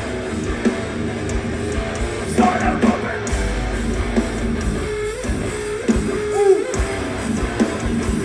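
Live heavy band playing loud: distorted electric guitars and drums. Near the middle a guitar holds a high note and bends it up and down several times.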